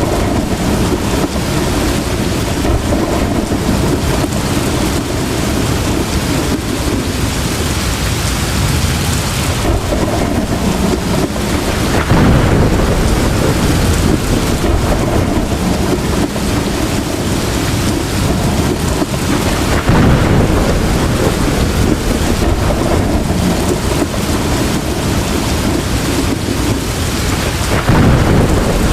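Heavy rain falling steadily, with thunder. The sound swells suddenly three times, about twelve, twenty and twenty-eight seconds in.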